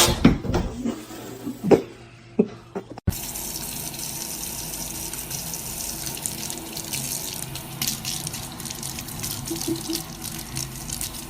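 A few sharp, loud knocks in the first three seconds, then a steady rush of running water, like a tap or filling sink, for the rest.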